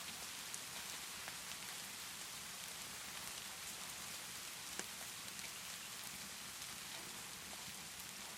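Steady rain falling in an even hiss, with a few sharp crackles from a wood fire scattered through it. The loudest crackle comes about halfway through.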